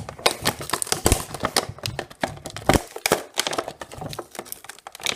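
Cardboard box and plastic packaging of a die-cast toy set being opened and handled by hand: an irregular run of sharp clicks, taps and crinkles.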